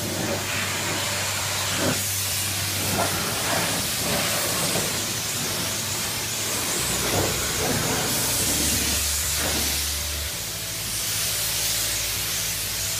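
Pressure washer at a self-service car wash, its jet of water spraying the mud-caked bodywork and wheel arch of a Land Rover Defender: a strong, steady hiss that rises and falls a little.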